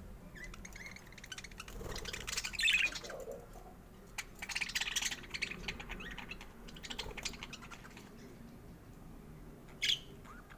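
Budgerigar chirping and warbling in bursts of rapid chatter, loudest about two seconds in and again around five seconds, with one short sharp call near the end.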